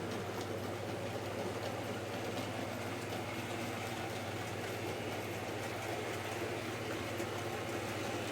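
Model railway locomotive running steadily around the layout: a constant electric motor hum with the faint clicking of wheels on the track.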